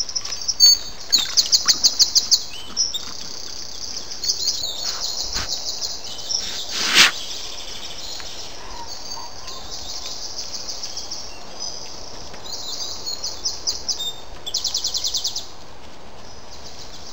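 Songbirds singing: repeated quick trills of high notes, over a steady hiss. A single sharp click about seven seconds in.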